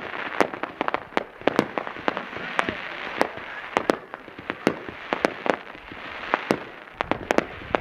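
Fireworks display going off: a rapid, irregular string of sharp bangs and pops, several a second, over a continuous crackle.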